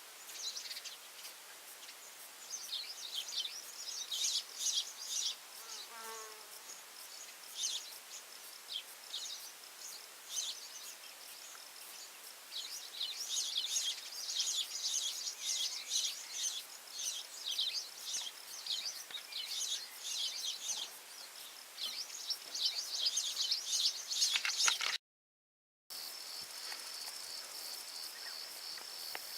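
Wild birds calling in many short, high, chirping notes, with a few lower calls sliding down in pitch about six seconds in. After a sudden break near the end, an insect, such as a cricket, keeps up a steady, evenly pulsing high trill.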